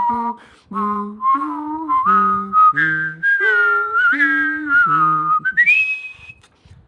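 A person whistling a melody in short held notes, with a lower voiced tone moving along with it, ending on a rising whistle near the end that fades out.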